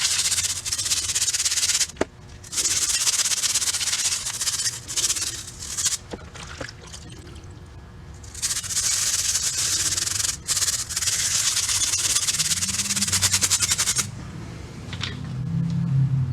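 Abrasive work on the metal of a restored toy truck: a harsh hiss with a fast scratchy grain, in three long bursts separated by short pauses.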